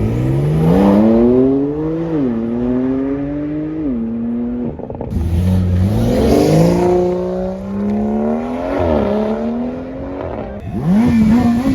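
Car engines accelerating hard, each climbing in pitch and dropping at gear shifts: one pulls through two shifts in the first four seconds, a second car pulls away about five seconds in and shifts twice more. Near the end another engine is held at high, wavering revs.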